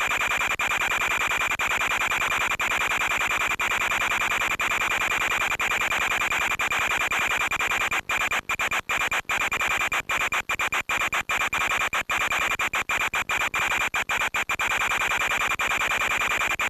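Steady hissing static with a thin high whine, as heard on an FPV flight recording, with faint ticks about once a second. Between about eight and fourteen seconds in, it cuts in and out rapidly.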